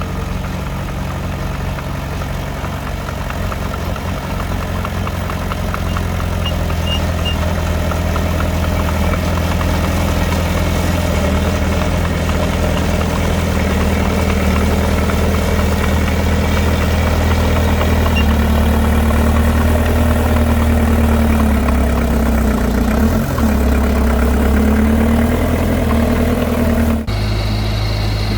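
Heavy earthmoving machinery's diesel engine running steadily, rising a little in load partway through, with an abrupt change in engine sound near the end.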